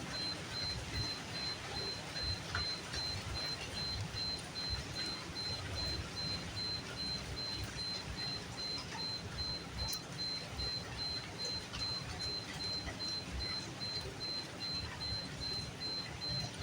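Steady rain falling at night, an even patter with a fluctuating low rumble underneath and a thin, steady high-pitched tone running throughout.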